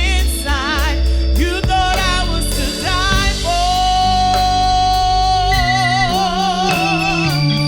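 Gospel solo singing with strong vibrato over organ and bass accompaniment. The voice holds one long note through the middle, then moves on.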